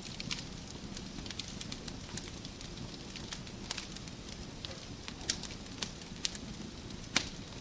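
Wood fire crackling in a fireplace: a steady low rush with irregular sharp pops from the burning logs, the loudest pop near the end.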